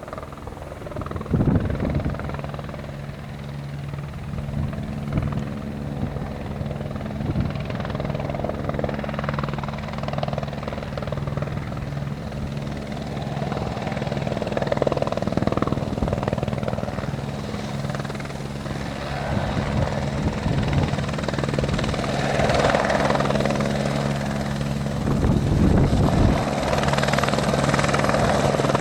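Helicopter running, a steady low rotor-and-engine drone that grows louder over the stretch, with a thin high whine coming in about two-thirds through. Strong gusty wind buffets the microphone.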